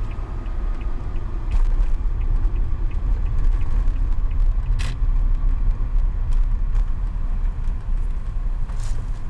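A car driving, with a steady low rumble of engine and tyres and a few sharp clicks.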